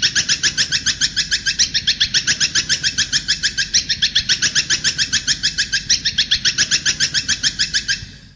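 A songbird singing a fast, steady run of sharp repeated chattering notes, about eight or nine a second; the song fades out near the end.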